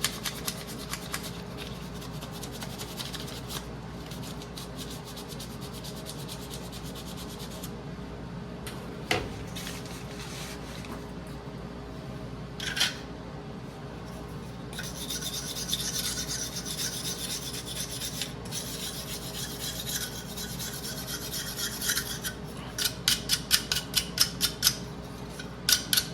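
Scrubbing and scraping on metal furnace parts. A steady hissing scrub in the second half turns into quick repeated strokes, about three a second, near the end, over a steady low hum.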